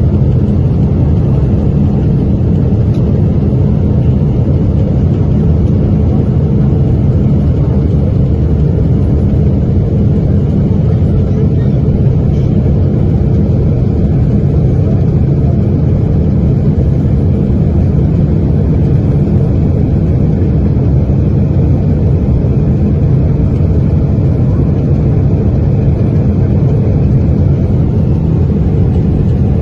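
Steady, loud low rumble of a Boeing airliner in flight, its jet engines running without a break.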